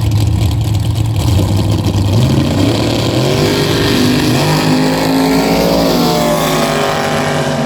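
Drag-racing car engine accelerating hard: a loud low rumble, then the pitch climbs, drops sharply at a gear change about six seconds in, and climbs again.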